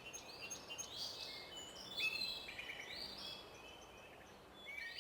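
Several birds chirping and singing over a faint woodland hiss, in many short overlapping chirps and whistles, with a louder chirp about two seconds in.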